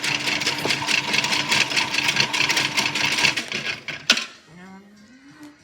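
Toy washing machine running: its small motor hums steadily under a fast rattle, then winds down about three and a half seconds in, followed by one sharp click.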